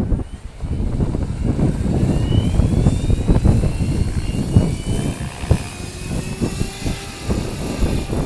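Electric RC helicopter (stretched MSHeli Protos with 470 mm blades) flying, its motor and rotor whine sliding up in pitch in the middle, under heavy wind buffeting on the microphone.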